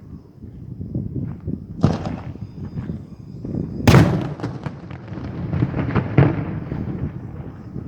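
Daytime fireworks battery going off: a quick string of bangs and pops over a continuous rumble. The biggest reports come about two seconds in, four seconds in (the loudest) and six seconds in.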